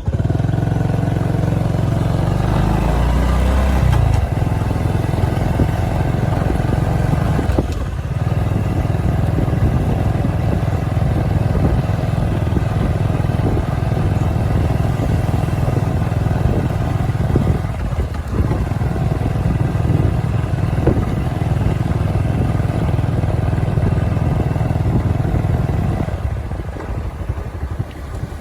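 Motorcycle engine running under way, a steady low rumble that dips briefly twice and eases off near the end.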